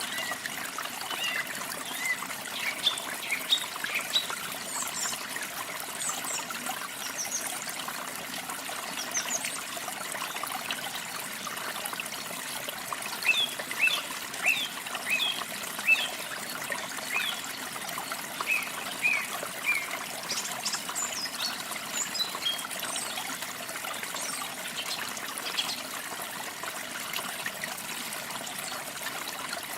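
Small birds chirping in quick, high notes over a steady trickle of running water. The chirping comes in spells, busiest near the start and again in the middle.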